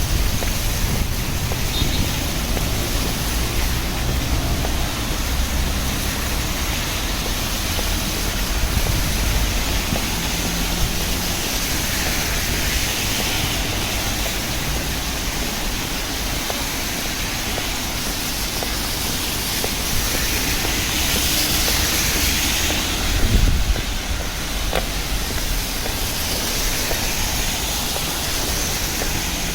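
Steady rain hiss with a low rumble of city street noise beneath it, and a brief louder low thump about three-quarters of the way through.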